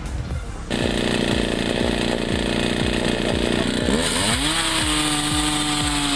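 Chainsaw engine running hard, coming in loud about a second in, its pitch sweeping down about four seconds in and then holding steady, over background music with a steady beat.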